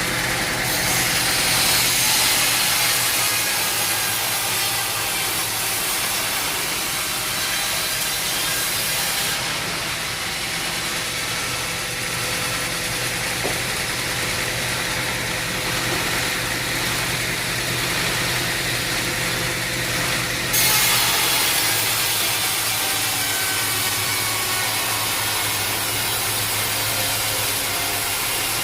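Sawmill at work: an engine hums steadily under the hiss of a saw cutting through an oak log. The hiss changes abruptly about a second in, again around nine seconds and again around twenty seconds.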